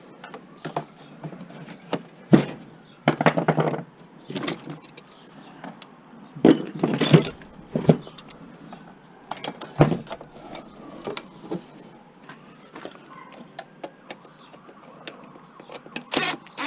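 Metal scrap parts clanking and rattling as they are handled and set down: irregular knocks and clatters, with several louder ones in the first half.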